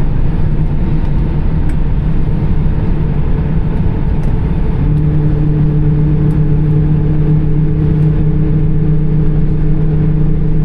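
Airbus A320's CFM56 jet engines at taxi idle, heard inside the cabin as a steady rumble. About five seconds in, a low hum with overtones grows stronger and holds.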